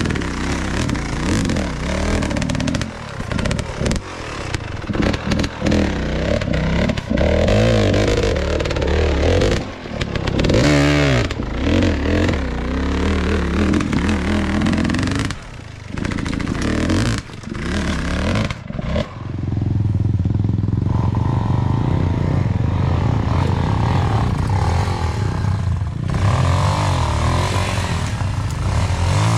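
Enduro dirt bike engine revving up and down over a rocky downhill trail, with clattering knocks as the bike goes over rocks. About two-thirds of the way through, the engine settles into a steadier run.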